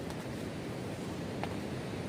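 Steady wash of sea surf and wind, with a faint tick about one and a half seconds in.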